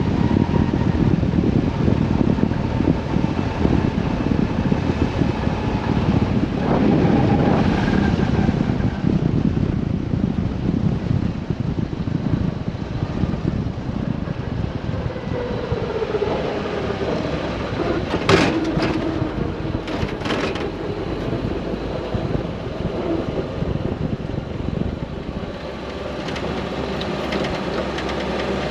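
1970 Toyota Land Cruiser engine running on the move, with heavy wind and road noise over it. A few sharp knocks come about two-thirds of the way through, and near the end the sound drops a little and settles into a steadier engine note.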